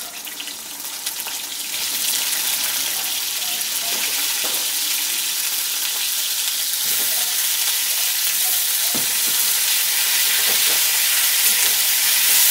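Cauliflower florets sizzling as they go into hot mustard oil in a kadai. The hiss builds over the first two seconds and then holds steady as they fry, with the occasional scrape and knock of a spatula stirring them.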